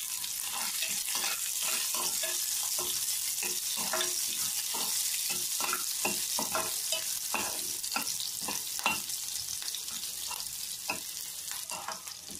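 Chopped onions and green chillies sizzling in hot oil in a metal kadai, with a steel spoon scraping and knocking against the pan as they are stirred.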